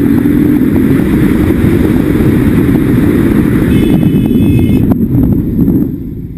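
Motorcycle riding under way: engine running beneath heavy wind rumble on the microphone, dropping noticeably in level near the end.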